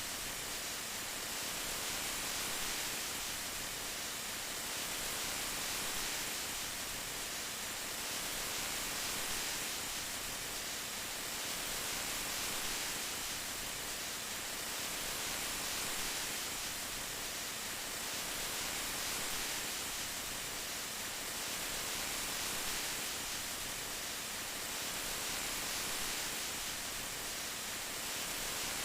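Steady rain, an even hiss that swells and eases gently every couple of seconds.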